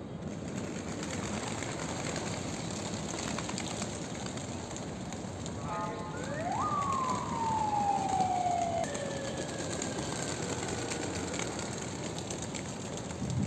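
A siren winds up quickly about six seconds in, then slowly winds down and fades over the next five seconds. Steady background noise runs beneath it.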